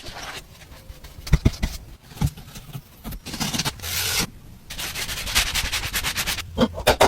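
Hand sanding or rubbing on a hard surface in irregular scraping strokes, quicker for a stretch after the middle, as an old object is cleaned down.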